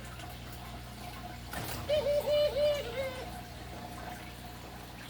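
Steady trickle of running water, as from an enclosure's water filter, over a low hum. About two seconds in, a brief swish, then four short pitched notes in quick succession.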